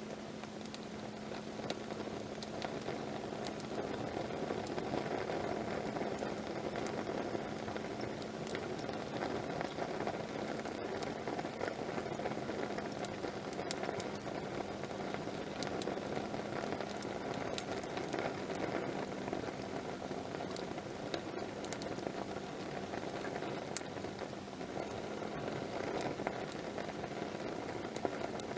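Wood campfire burning steadily in a fire stand: a continuous rushing hiss of flames with scattered sharp crackles and pops from the burning wood.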